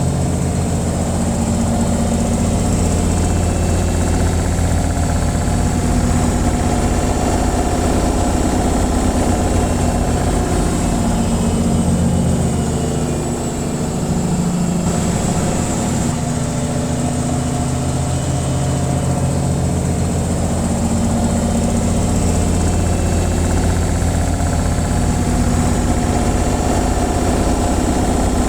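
Washing machine on its spin cycle: a steady motor hum with a low drone. It dips briefly about halfway through, then carries on.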